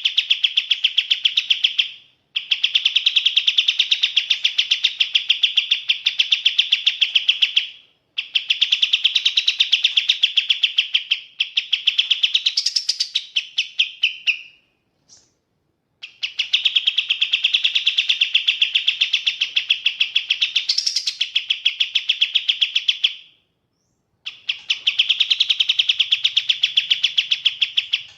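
Sooty-headed bulbul (kapas tembak) singing in long, rapid trilling phrases of several seconds each, separated by short pauses, with one brief note in the longest pause.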